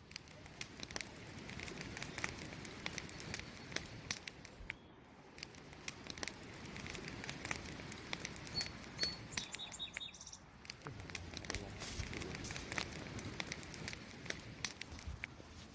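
Wood campfire crackling: a dense run of sharp pops and snaps over a steady hiss of burning. A bird chirps a few short, high notes about halfway through.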